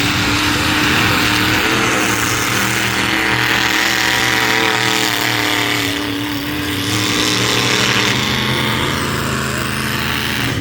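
Engines of demolition derby trucks running loudly, their pitch shifting a little as they rev.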